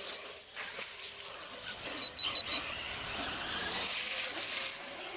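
Radio-controlled monster trucks racing, their electric motors and tyres making a steady high whine and hiss that swells in the second half. A short string of high beeps sounds about two seconds in.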